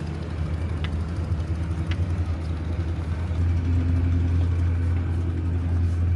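An engine running steadily with a low, even hum that grows a little louder about three seconds in.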